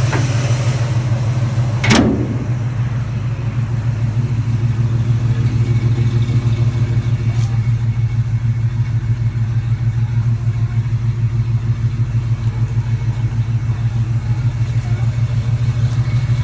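Truck engine idling with a steady, evenly pulsing exhaust note, with a single sharp click about two seconds in.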